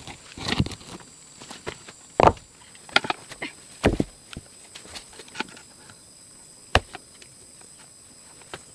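Scattered knocks and thuds, about five of them at irregular intervals. The loudest come about two seconds in and near four seconds.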